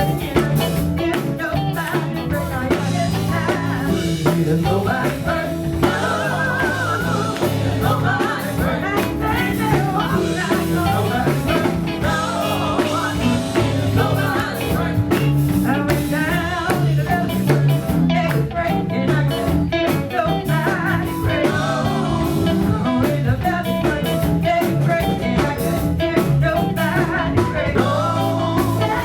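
Live band music: a singer over drum kit, bass and electric guitar, playing at a steady loud level.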